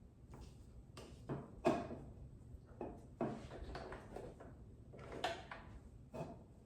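Light, irregular knocks, clicks and rustles of hands handling fabric and parts at a sewing machine; the machine itself is not running.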